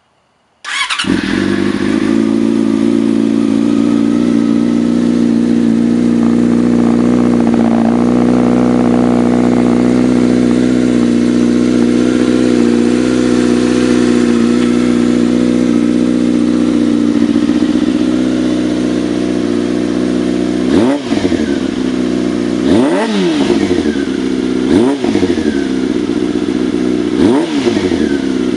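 2005 Yamaha R6's inline-four engine, breathing through a Two Brothers slip-on exhaust, starts up about a second in and idles steadily. In the last eight seconds the throttle is blipped four times, the pitch rising quickly and dropping back to idle each time.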